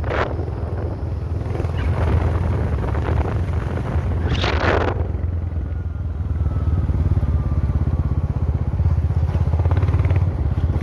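Low, steady engine rumble of a motor vehicle being driven along a road, with two brief rushes of noise, near the start and about four and a half seconds in.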